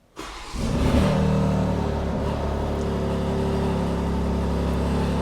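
BMW X3 M Competition's twin-turbo straight-six starting: a brief crank, a rev flare about a second in, then settling into a steady idle.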